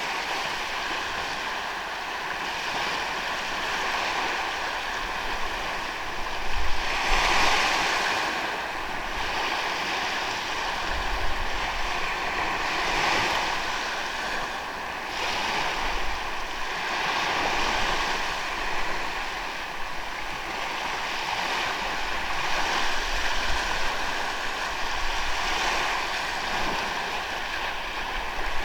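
Ocean waves breaking and washing up a sandy beach, the surf rising and falling every few seconds, with the loudest wash about seven seconds in.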